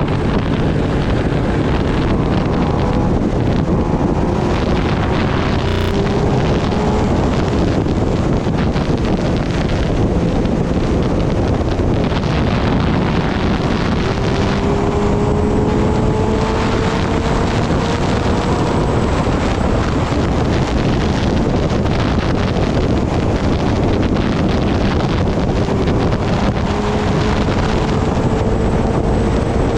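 Heavy wind buffeting the microphone at riding speed, with the Kawasaki Ninja ZX-10R's inline-four engine faint beneath it, its pitch rising slowly several times as it gains revs.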